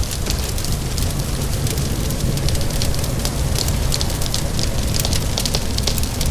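Fireplace fire crackling with many quick, irregular pops over steady rain and a continuous low rumble.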